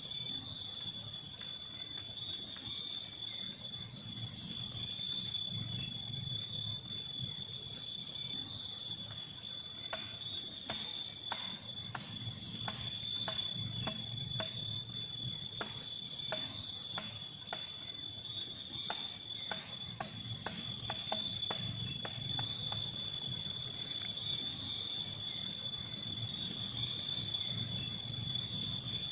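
Steady high-pitched chorus of forest insects, with a run of short, light knocks or clicks, about one or two a second, from about ten seconds in until a little past twenty seconds.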